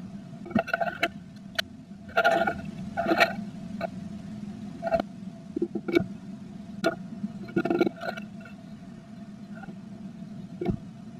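Blue tit scratching, tapping and rustling inside a nest box as it works nesting material into the nest: irregular clicks and short scrapes, busiest in two clusters, over a steady electrical hum.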